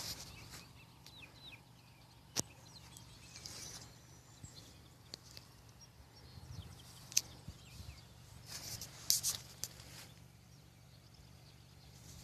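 Quiet outdoor ambience: faint bird chirps, two sharp clicks and a couple of brief rustles.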